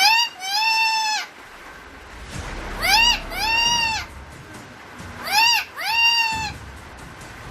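Pet black-capped lory calling: three paired calls about two and a half seconds apart, each a short rising note followed by a longer arched one.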